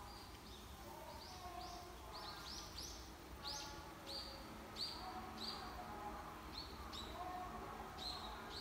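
Songbirds calling: a quick series of short, high notes that slur downward, about two or three a second, with fainter, lower whistled notes under them and a low steady rumble.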